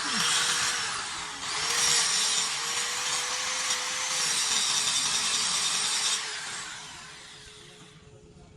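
A handheld power tool grinding or abrading, a steady hissing scrape that dips briefly about a second in and tails off over the last couple of seconds.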